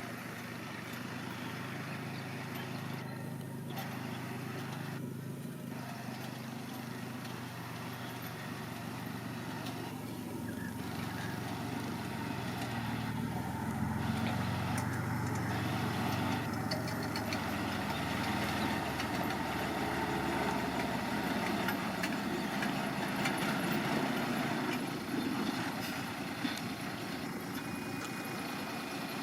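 Diesel engine of heavy earthmoving machinery running steadily, getting louder about halfway through and easing off again near the end.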